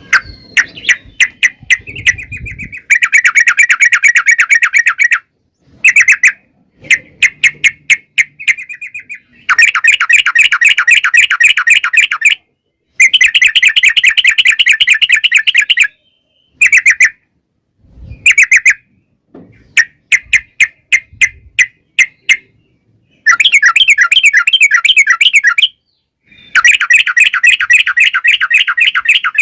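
Trucukan (yellow-vented bulbul) singing in loud bursts of very rapid chattering notes, each burst a long fast trill (the 'ropel panjang' style) of two to three seconds, with short pauses and scattered single notes between them.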